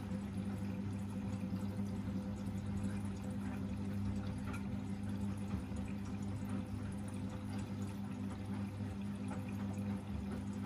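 Washing machine moving water during a cold pre-rinse: a steady electric hum under pouring, splashing water.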